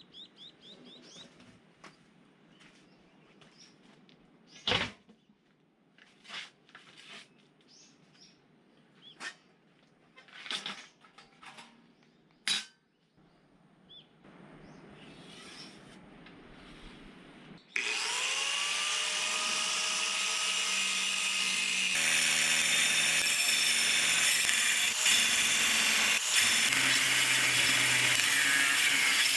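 Scattered quiet knocks and clicks of handling, then about eighteen seconds in a power tool's motor spins up with a rising whine and runs steadily. About four seconds later it turns louder and harsher as it bites in, cutting through a 4.5 mm steel plate.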